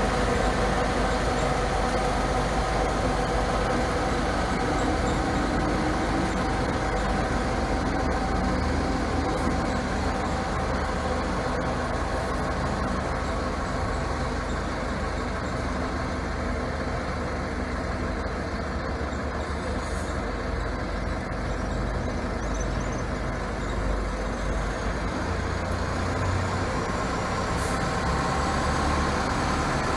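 Bus engine idling steadily with a constant low rumble and a droning hum.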